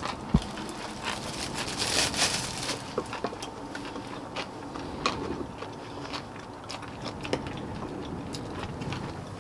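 Eating sounds of someone chewing and biting boiled chicken, with many small sharp clicks and a single low thump about half a second in.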